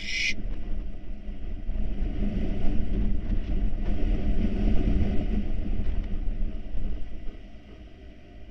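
Hurricane wind buffeting the nest box and its microphone: a heavy, uneven low rumble that swells for several seconds and then eases near the end. A short hiss sounds right at the start.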